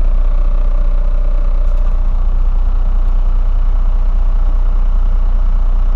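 Diesel truck engine idling steadily with the air-conditioning blower running.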